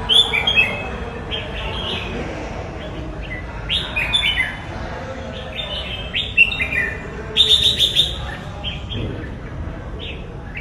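Red-whiskered bulbul singing: short phrases of quick, bright, mostly falling whistled notes, repeated every couple of seconds, the loudest phrases at the start and about three quarters of the way through.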